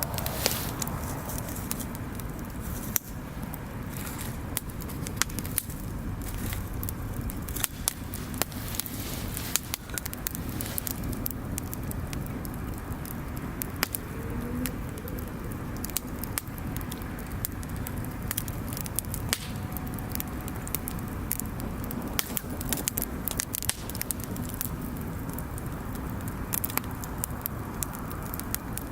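Bonfire burning, wood crackling with frequent irregular sharp pops over a steady low rumble.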